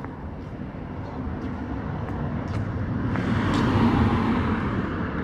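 A road vehicle passing by: its tyre and engine noise swells to a peak about four seconds in, then fades.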